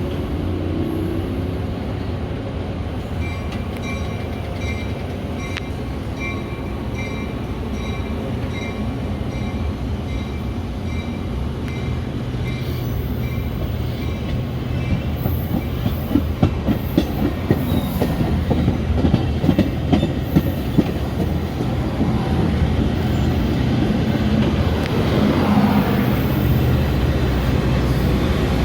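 Metra commuter train at a station: a warning chime rings in short pulses about twice a second for several seconds, then the wheels clack rhythmically over rail joints over a low rumble that grows louder as the train moves.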